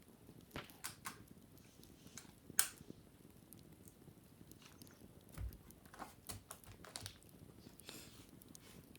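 Wicker basket being handled and cleaned: sparse light taps, creaks and scratches on the woven cane, with the sharpest tap about two and a half seconds in and a soft brushing scratch near the end.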